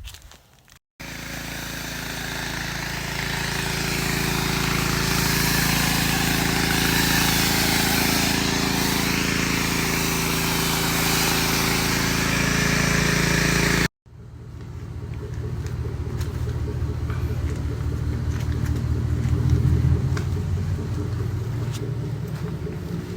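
Vehicle on the move: engine hum under a loud rush of road and wind noise, cut in sharply about a second in. The sound cuts off abruptly near fourteen seconds and comes back with the engine hum stronger and much less rush.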